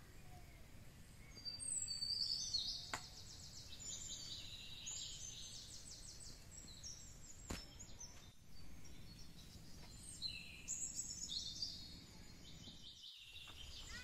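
Small birds chirping and trilling in quick, high-pitched runs in two spells, over a low background rumble, with a couple of faint clicks.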